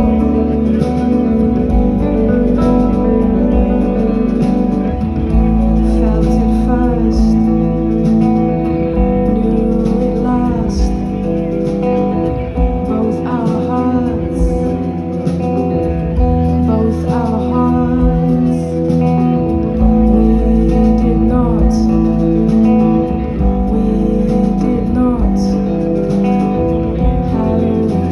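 Live band music: a full band playing an instrumental stretch of a song, with guitar and a strong, steady bass line.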